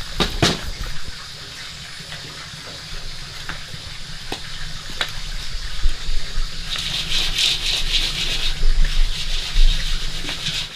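Running or pouring water with a steady rush, with a few sharp knocks in the first half; the water grows louder and busier for the last few seconds.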